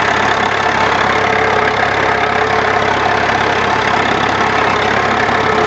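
Old diesel farm tractor engine running loudly and steadily, with no change in speed.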